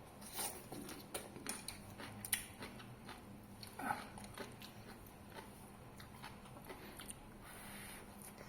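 Eating at a meal of fish meatballs: chewing with scattered sharp clicks and knocks, busiest in the first few seconds, and one brief higher-pitched sound about four seconds in.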